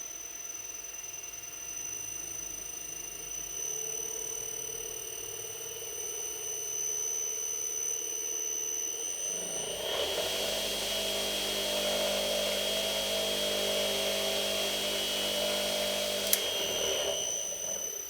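Restored Elettromeccanica Generale three-phase bench grinder running on an inverter: a steady motor hum with a high electronic whine. About ten seconds in it grows louder and harsher, then dies away near the end.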